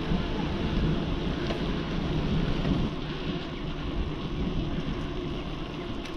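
Wind buffeting a bike-mounted camera's microphone while cycling: a steady low rumbling rush that eases a little about three seconds in.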